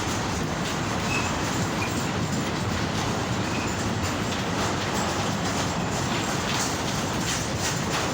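A long goods train rolling past at close range: the steady rumble of wagon wheels on the rails, with two brief high wheel squeals about one and two seconds in.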